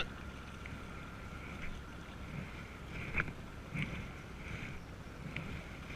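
Canoe paddles working in the water during draw strokes: faint, occasional splashes and one light knock about three seconds in, over steady wind noise on the microphone.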